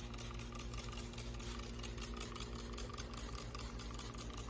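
Spray 9 degreaser trigger spray bottle squeezed over and over, a fast, even run of clicks and short spritzes several times a second, under a faint steady low hum.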